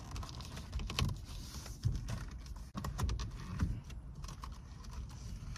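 Irregular clicks, taps and rubbing of hands stretching a steering wheel cover onto a car's steering wheel.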